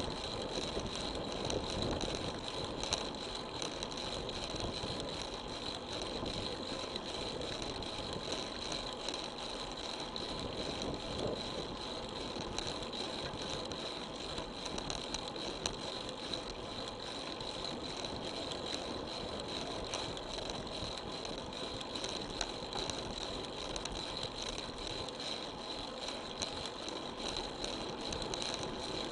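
Road bicycle riding along: steady tyre and road noise with light rattling from the bike, and a steady high-pitched whine over it.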